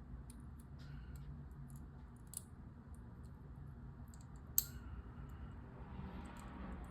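Small plastic clicks and taps of LEGO pieces being handled and pressed together, a few at a time, with one sharper click about four and a half seconds in.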